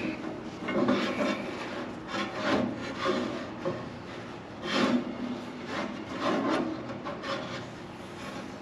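Irregular rubbing and scraping as a rubber drive belt is worked against the sawmill's pulley, a belt that seems too small to stretch into place.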